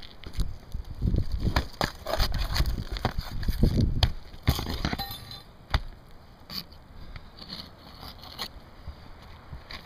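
Roof shingles being pried loose and pulled up: a run of scraping, crackling and sharp clicks with a few dull knocks, busiest in the first five seconds, then sparser.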